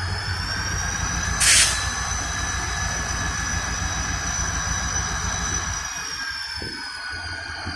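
Freight train rolling slowly, its wheels squealing in several sustained high tones over a low rumble; the squeal pitch rises near the start and falls away about six seconds in. A short loud hiss sounds about one and a half seconds in.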